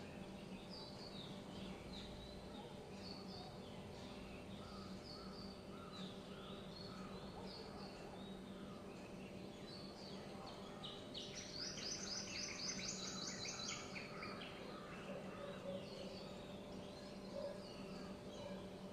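Birds chirping, many short calls overlapping, with a fast run of high repeated notes for about three seconds partway through. A steady low hum runs underneath.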